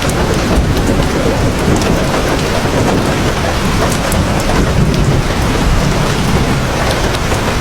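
Heavy rain pouring steadily, with a deep low rumble underneath and small drop ticks scattered through it.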